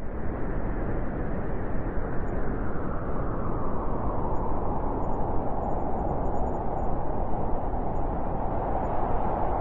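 Blizzard wind: a steady rush of storm wind, with a howling note that grows a little stronger about halfway through.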